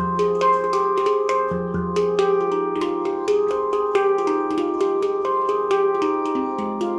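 Nimo Sounds handpan in F low pygmy tuning played in a free improvisation: quick strikes, several a second, of ringing, overlapping notes, with a deep bass note struck at the start and again about a second and a half in.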